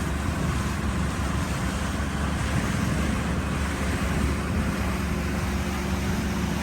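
Outboard motor of a small fishing boat running steadily, with wind and water noise over the hull.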